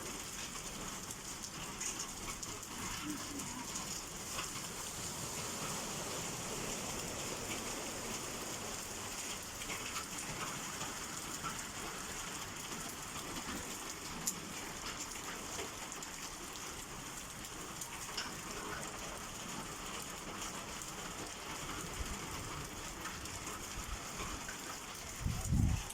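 Heavy summer rain falling steadily, with scattered sharper drop hits, and a short low rumble just before the end.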